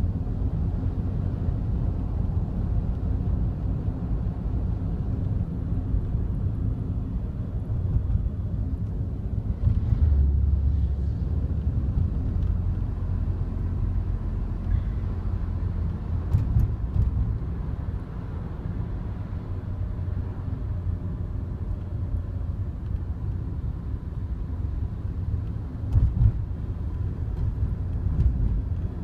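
Cabin noise in a moving Daihatsu Wake, a three-cylinder kei car, with a steady low road and engine rumble. A few short clicks and rattles come through a little past halfway and again near the end. This is the abnormal noise that the owner suspects is coming from near the passenger-side drink holder.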